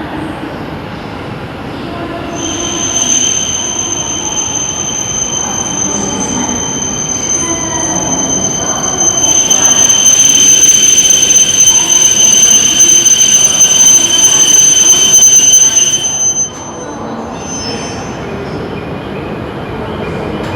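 Shinkansen train in the station with a steady, high-pitched wheel squeal. A louder rushing rumble joins about nine seconds in, and both cut off sharply about sixteen seconds in, leaving a quieter rumble.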